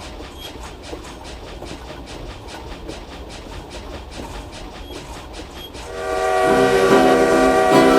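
Train wheels clicking over rail joints in an even rhythm, about three to four clicks a second. About six seconds in, a much louder sustained chord of several tones comes in, either the train's horn or music.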